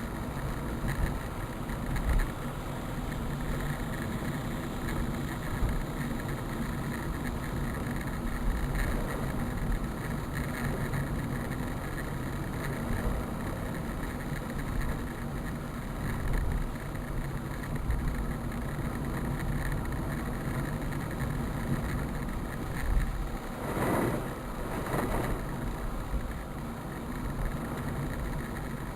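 A motor vehicle's engine running steadily under a constant wash of noise, with a louder rushing swell about three-quarters of the way through.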